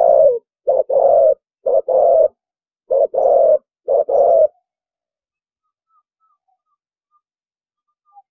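Spotted dove cooing: the end of a 'thổ bầu' style song phrase, a string of about five low coos, each a short note followed by a longer one. The coos stop about four and a half seconds in, leaving a pause before the next phrase.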